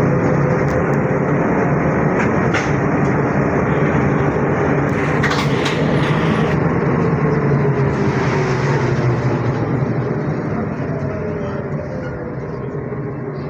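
Running noise of a ZiU-682G trolleybus heard on board: a steady rumble with a traction-motor whine that falls in pitch in the second half, and the noise eases toward the end as the trolleybus slows. A couple of short clicks sound early on.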